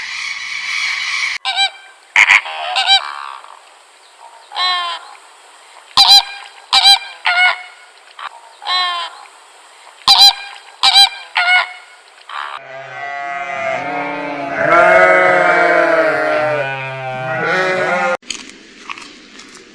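Short, loud honking animal calls repeated at irregular intervals, about a dozen in all. Near the end comes one long, wavering call at a lower pitch that cuts off suddenly.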